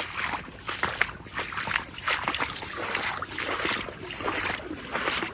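Legs wading through knee-deep floodwater, the water swishing and splashing with each stride about once a second.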